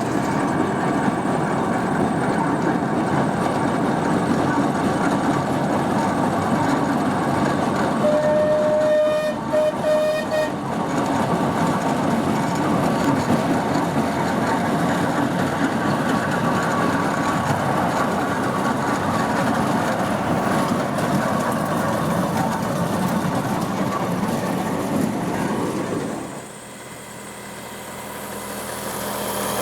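Steam traction engine running along the road, a steady mechanical clatter and rumble. About 8 seconds in, its steam whistle gives a few short toots.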